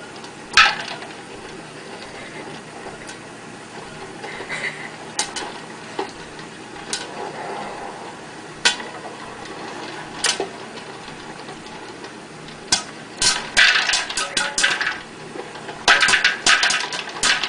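Scattered sharp knocks and clattering over a steady background hiss, coming in quick runs toward the end.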